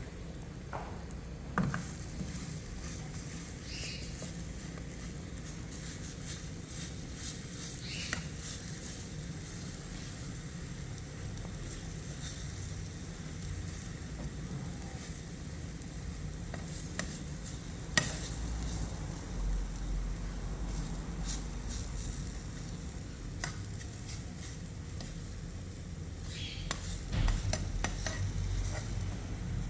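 Sweet potato bread cooking in a lightly oiled frying pan: a steady soft sizzle, with a few sharp clicks, the loudest about eighteen seconds in.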